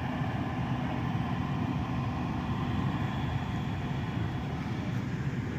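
An engine running steadily with an even low rumble.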